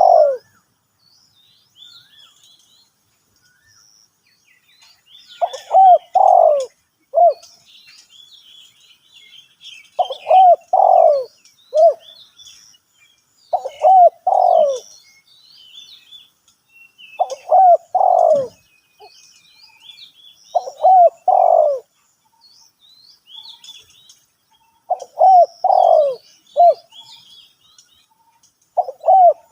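Spotted dove cooing: a short phrase of three or four notes, repeated every three to four seconds. Small birds chirp faintly in the background.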